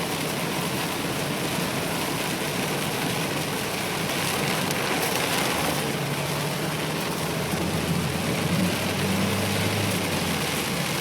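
Rain falling steadily, an even hiss. A low engine hum, such as a passing or idling vehicle, comes in about six seconds in and fades about ten seconds in.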